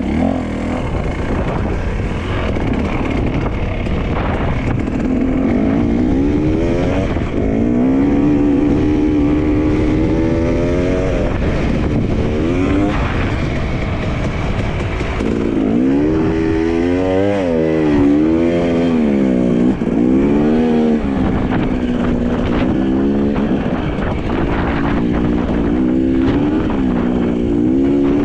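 Dirt bike engine running under load off-road, its pitch repeatedly rising and falling as the rider works the throttle and gears.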